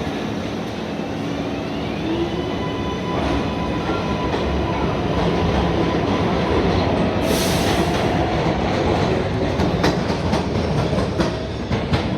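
A New York City subway train running through an elevated station, with a steady rumble and a faint gliding motor whine that grow louder toward the middle. About seven seconds in there is a short hiss, and near the end the wheels click sharply over the rail joints.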